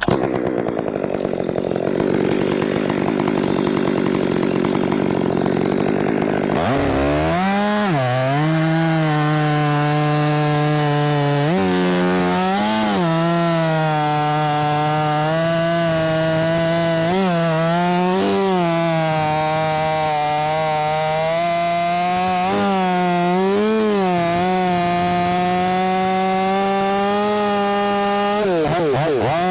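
Milwaukee battery top-handle chainsaw cutting straight through a tethered limb. A rough, noisy stretch gives way about a quarter of the way in to a steady motor whine. The whine dips in pitch several times as the chain loads up in the cut, then falls away near the end.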